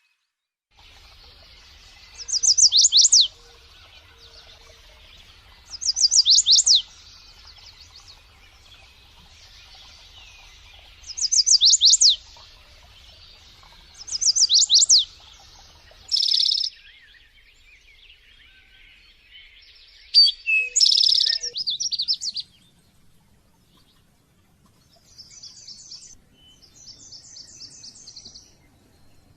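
Songbird singing: four phrases of about a second each, every one a quick run of high, downward-sweeping whistled notes. A sharp single call follows about halfway through, then a brief burst of calls, and softer rapid trills near the end.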